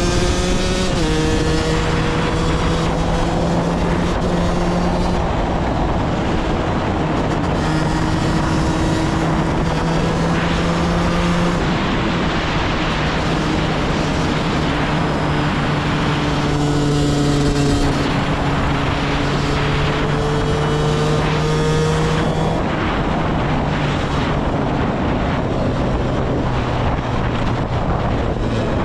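KTM 125 EXC two-stroke single-cylinder dirt bike engine running under way. Its note drops suddenly several times and climbs slowly again between drops, over a constant rush of noise.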